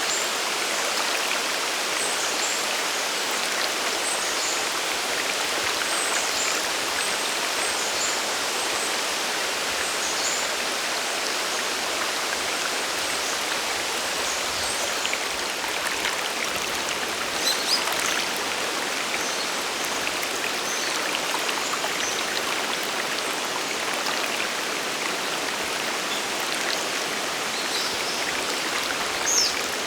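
Steady rush of falling and flowing water at Sagiri Falls, a mountain waterfall on the Nanuki River, with a few faint high chirps over it.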